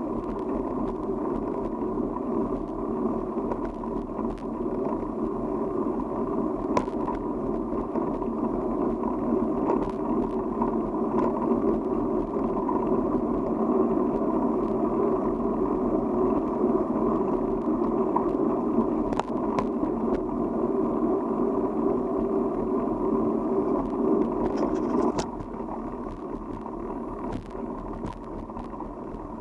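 Steady rushing ride noise from a moving bicycle: wind on the camera microphone and tyres rolling on the road, with scattered small clicks and rattles. The noise drops noticeably about 25 seconds in, as if the bike slows.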